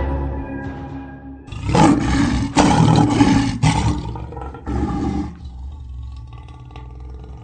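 A lion roaring in a series of about five loud roars, one after another over roughly four seconds, then dying away. Music fades out in the first second or so.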